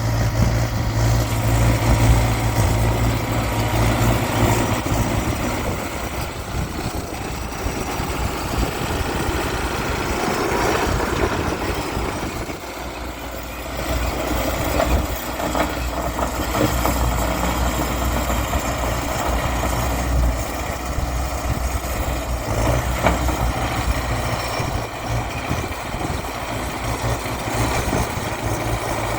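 Bulldozer's diesel engine running under working load, a steady heavy hum that rises and falls as it works; it eases off about twelve seconds in and picks up again soon after.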